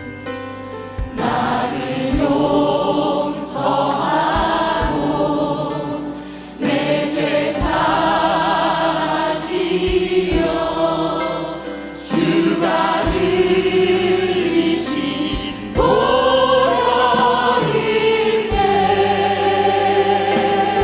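Choir singing a gospel hymn with instrumental accompaniment, in long held phrases with vibrato over a steady bass pulse, pausing briefly between lines.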